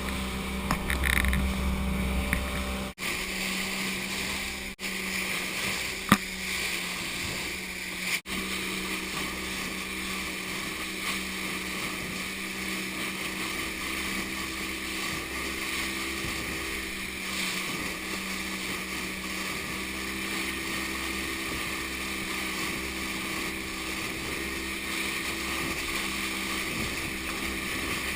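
Motorboat engine running steadily, a constant hum with hiss. The sound breaks off for an instant three times in the first eight seconds, with a sharp click about six seconds in.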